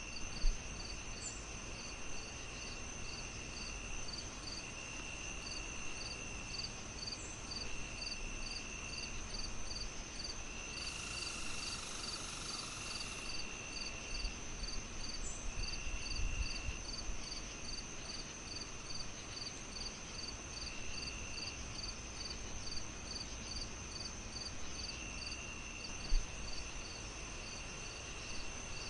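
Crickets chirping in a steady high pulse of about three chirps a second, with other insects trilling on and off, over the hiss of a crackling fire. Two sharp pops from the fire come, one just after the start and one near the end.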